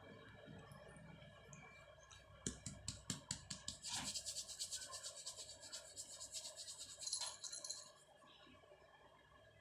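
Kittens playing: faint scratching and rubbing with a quick run of light clicks, then a few seconds of busy scratchy scrabbling that dies away near the end.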